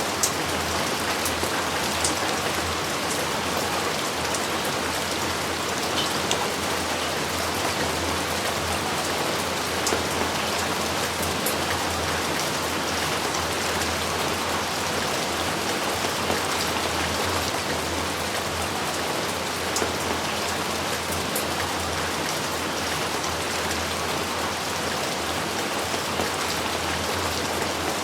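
Steady heavy rain falling, an even hiss with scattered drop ticks.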